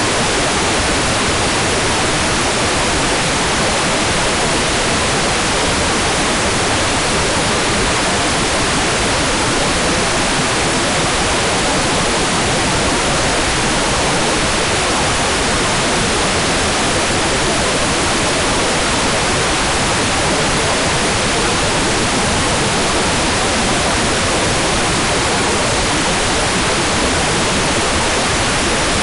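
Hair dryer running steadily: an even, unchanging rush of air noise with no rise or fall, used as white noise for baby sleep.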